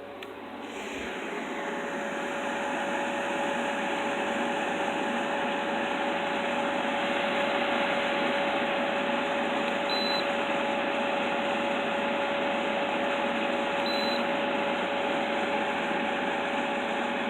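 Arctic King window air conditioner running. Its fan noise builds over the first couple of seconds, then holds steady with a constant hum. Two short high beeps sound about four seconds apart.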